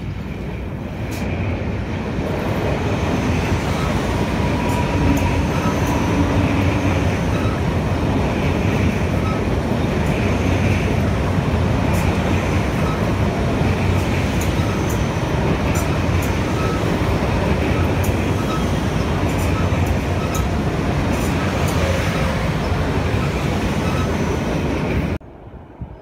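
ICE high-speed electric train, two sets coupled, passing close by on a steel truss railway bridge: a loud, steady rumble and rush of wheels on rail with faint clicks. It builds over the first two seconds and cuts off abruptly near the end.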